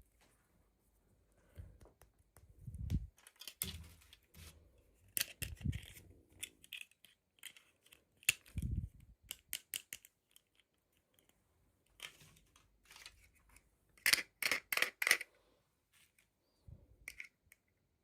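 Toy packaging being handled and opened: scattered sharp clicks and rustles with a few dull thumps, and late on a quick run of loud sharp clicks.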